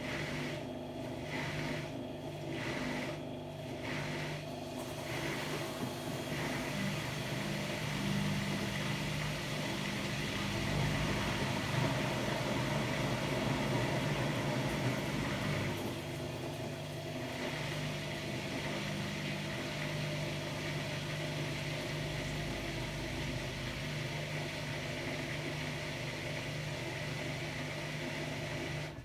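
Hotpoint-Ariston AQD972F washer-dryer running, a steady mechanical hum. It pulses about once a second for the first few seconds, grows a little louder in the middle, and cuts off suddenly at the end.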